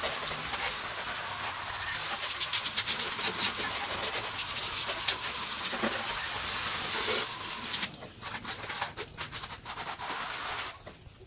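Water from a garden hose lightly rinsing degreaser off a car's engine bay: a steady spray hiss that breaks into irregular spattering about eight seconds in and fades near the end.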